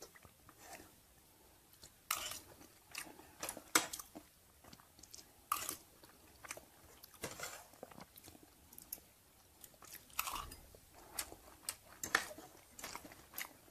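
A person chewing a mouthful of food close to a clip-on microphone: irregular wet clicks and small crunches, with brief pauses between bites.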